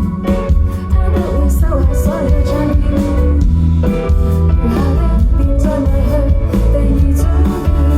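Live band performance: a voice singing over guitar with a heavy bass line.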